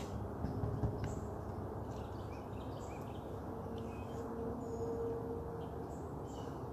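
Wild birds chirping with many short, scattered calls over a steady background hum.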